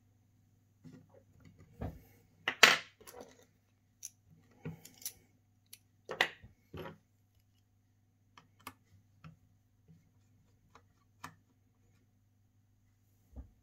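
Small metal repair tools and phone parts clicking and clattering on a workbench in scattered knocks, the loudest about two and a half seconds in and another cluster around six seconds. A faint steady hum runs underneath.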